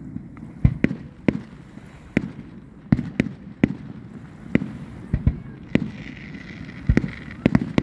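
Aerial fireworks shells bursting, about a dozen sharp bangs at irregular intervals, some in quick pairs.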